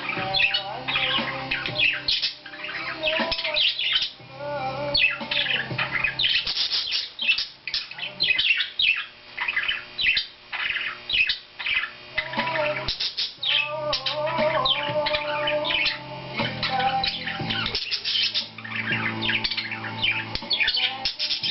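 Pet parakeets chattering, with rapid, continuous high chirps and squawks.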